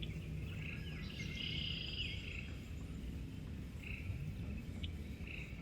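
Short buzzy trilling animal calls repeating every second or two, over a steady low rumble.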